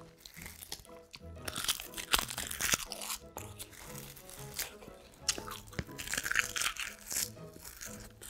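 Close-miked crunching and chewing of food in the mouth, in two spells, over soft background music.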